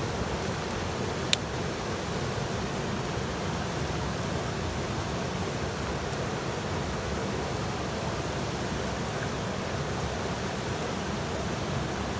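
Small wood campfire burning with a steady hiss, and one sharp pop a little over a second in.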